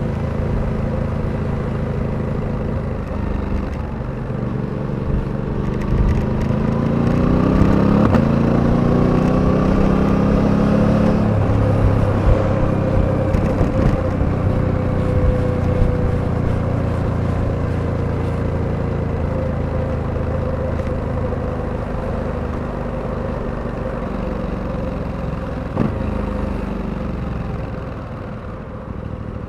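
Suzuki V-Strom 800DE's parallel-twin engine under way: it climbs in revs about six seconds in, drops sharply in pitch around eleven seconds, then runs steadily and eases off near the end.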